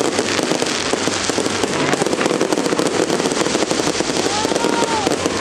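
Fireworks crackling in a dense, continuous run of small bursts over the steady noise of a large crowd, with a brief rising-and-falling tone near the end.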